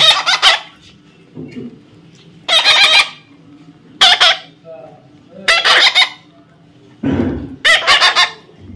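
Pet parrot squawking: a series of loud, harsh calls, about one every second and a half.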